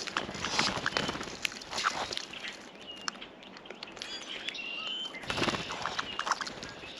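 Small birds at a seed feeder: short high chirps and calls, with two bursts of rustling and wing flutter close to the microphone, in the first couple of seconds and again about five seconds in.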